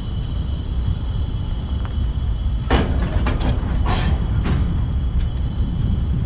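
Freight train's covered hopper cars rolling slowly past, a steady low rumble with a few sharp clanks and squeaks about three to four and a half seconds in.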